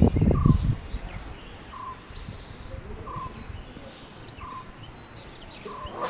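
Birds calling: one bird repeats the same short note about every second and a half, over scattered higher chirps from other birds. A burst of low rumbling noise is the loudest thing, in the first second.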